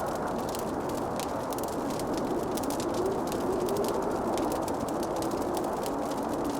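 Wood fire crackling, with a rapid, irregular stream of small pops and snaps over a steady low rush. A faint wavering tone drifts underneath.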